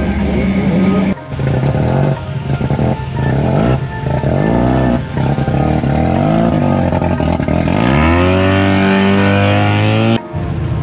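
Car engines revving and accelerating, heard as a string of short cuts, with one engine's pitch climbing steeply about eight seconds in.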